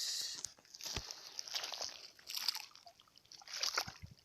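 Footsteps sloshing and splashing through shallow water and mud, in irregular bursts, with a sharp knock about a second in.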